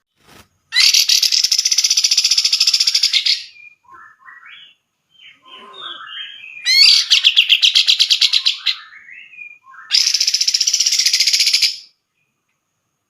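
Cucak jenggot (grey-cheeked bulbul) singing: three loud, fast, rattling trills of two to three seconds each, with softer scattered chattering notes between the first two. It falls silent near the end.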